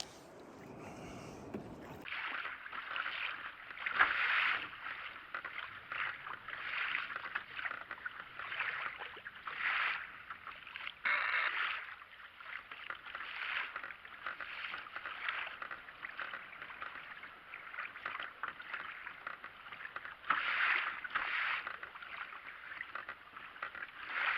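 Water splashing and washing against a kayak on the ocean, in uneven swishes about once a second.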